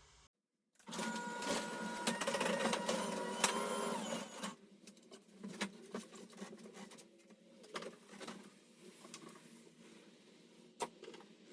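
A small electric motor whirs for about three and a half seconds, then scattered clicks and knocks follow.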